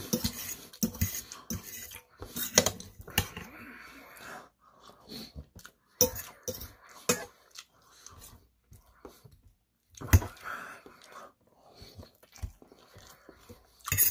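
Close-up chewing and mouth sounds of someone eating a meal of fried rice and tofu, with irregular clicks of a metal fork against a stainless-steel plate and one sharp loud click about ten seconds in.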